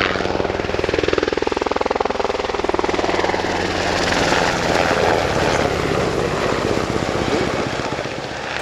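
Sikorsky UH-60 Black Hawk helicopter running close by, its rotor beating in a rapid, even rhythm over the steady sound of its twin turboshaft engines.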